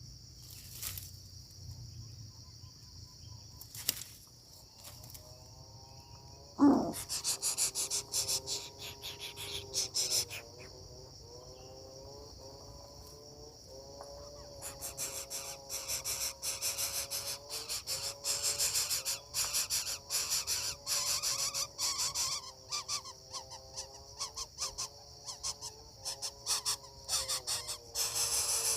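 Coucal chick calling from its nest: drawn-out, wavering calls with a fast rasping buzz, starting a few seconds in and growing louder after the middle, over a steady insect chirr. A single sharp knock comes about a third of the way in.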